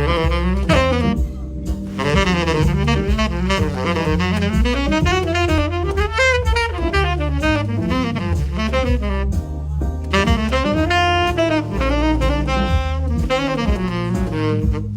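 Tenor saxophone improvising a jazz solo, a continuous run of melodic lines moving up and down, over a backing with bass and drums.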